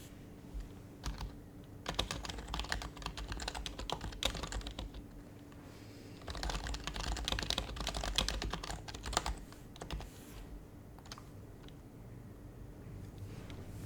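Typing on an HHKB Professional HYBRID Type-S keyboard, whose Topre switches are the silenced kind. Two runs of quick keystrokes start about two seconds in and about six seconds in, with scattered single keys between and after them.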